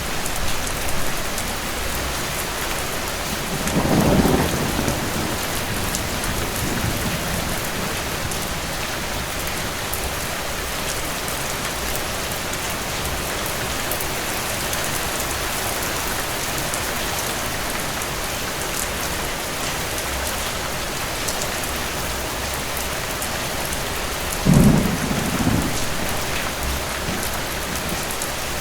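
Steady rain with two low rolls of distant thunder, one about four seconds in and a louder one near the end.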